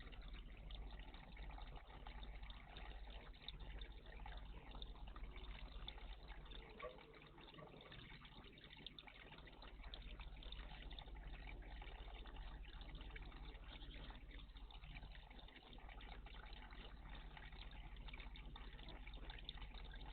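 Faint, steady trickling of running water in a bird bath, with a constant low hum underneath.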